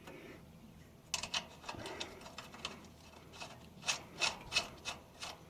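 Short metal clicks and scrapes of a bolt being fitted through a bearing flange on the haybine's crimper drive. They start about a second in and come irregularly, with a run of louder clicks about three a second near the end.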